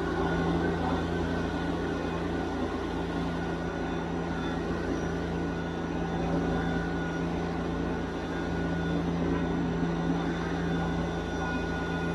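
Compact tractor engine running steadily under work, with a constant high whine over the engine note.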